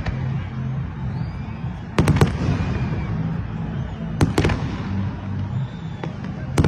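Fireworks bursting: sharp bangs in close pairs about two seconds in and again a little past four seconds, with another near the end, over a continuous rumble and crackle of distant bursts.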